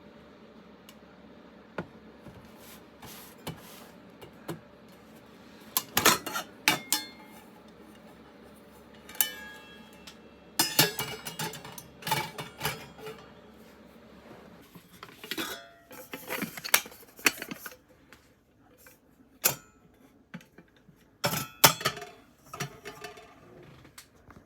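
Metal camping gear being handled: irregular clusters of clinks and clatters, some with a brief metallic ring.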